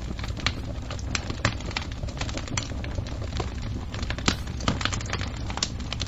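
Wood fire crackling: frequent sharp pops and snaps, one louder pop a little past the middle, over a steady low rumble.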